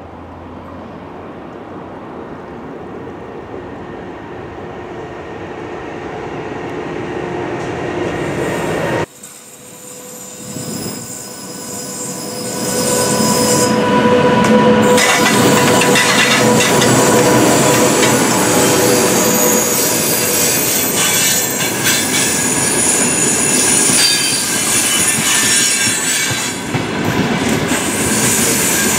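Freight train hauled by two VR Sr2 electric locomotives running close past, its wheels going by with a steady whine. The sound builds for about nine seconds, breaks off suddenly, then rises again and stays loud as the long string of open wagons rolls by.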